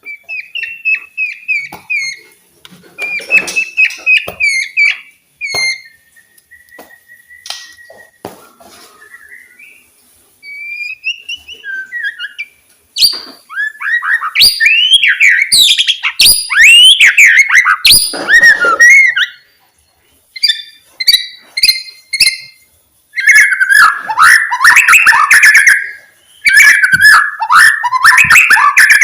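White-rumped shama singing: loud, varied whistled phrases broken by short pauses, including one long steady note, and dense rapid chattering runs near the end.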